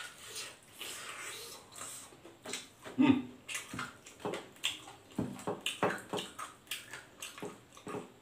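Close-up chewing and wet mouth smacking of a mouthful of fried chicken, a run of irregular short clicks and smacks several times a second, with one louder burst about three seconds in.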